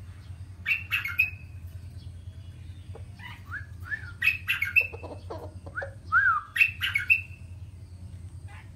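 Bird calls: short chirps and squawks with quick pitch glides, in three bursts about a second in, around four seconds and around six to seven seconds, over a steady low hum.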